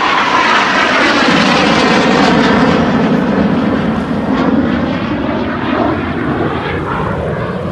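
An aircraft flying past low overhead: a loud rushing roar with a sweeping, shifting tone that peaks within the first few seconds and then slowly fades as it moves away.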